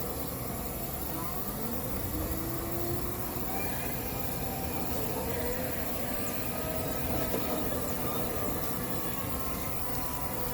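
Steady rushing noise with a low rumble that holds at an even level throughout, crossed by a few faint short whistling glides.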